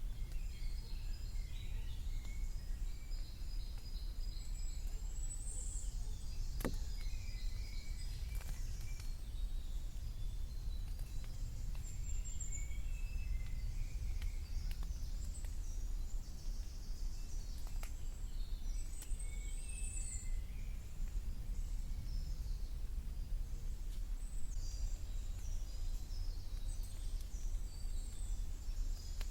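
Several woodland birds singing and calling, short high phrases one after another throughout, over a steady low rumble. A few sharp ticks cut through, the clearest about seven seconds in.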